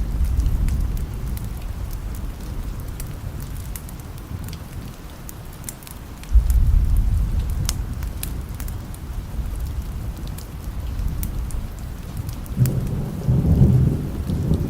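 Low rolling thunder over steady rain. A rumble fades over the first few seconds, a new roll breaks in suddenly about six seconds in, and another swells near the end, with scattered sharp clicks throughout.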